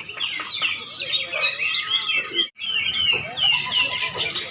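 Many caged songbirds singing at once, a dense overlapping chorus of quick chirps and whistled phrases. The sound drops out for a split second about halfway through.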